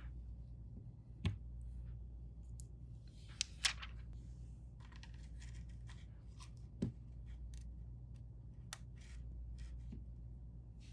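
Scattered small clicks, taps and short scrapes from a phone and small repair tools being handled on a work mat, the sharpest a few seconds apart, over a steady low hum.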